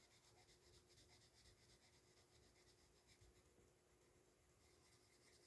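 Faint scratching of a colored pencil shading on paper, many quick strokes in a row.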